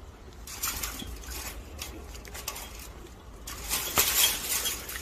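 Light clinking and rustling handling noises, like small objects or dishes being moved about, with a sharper knock about four seconds in.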